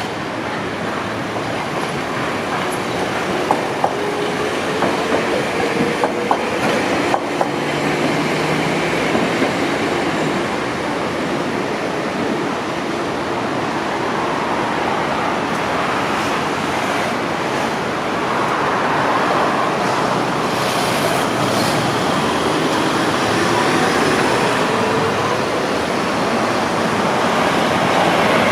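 Street traffic at a busy tram intersection: streetcars and city buses passing, with a run of clacks from wheels crossing the track joints a few seconds in and rising whines from vehicles pulling away.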